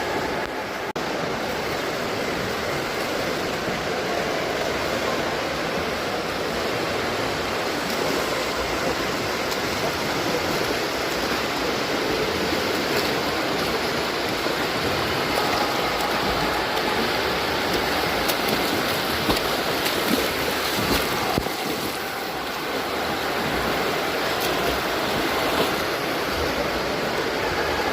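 Steady rushing and churning of swimming-pool water, with a few brief sharper splashes in the second half.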